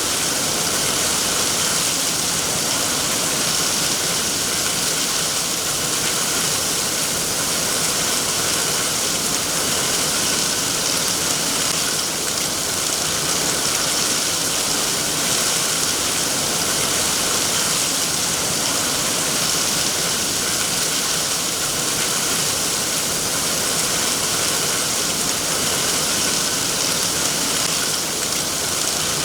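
Steady rain falling, a continuous even hiss with no distinct drops or breaks.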